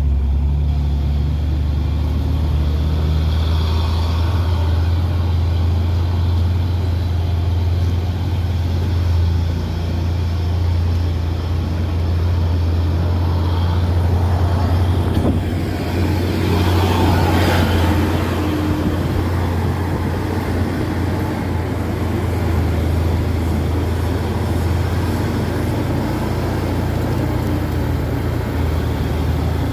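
Heavy truck's diesel engine running steadily with a low drone. A brief rush of noise comes about halfway through.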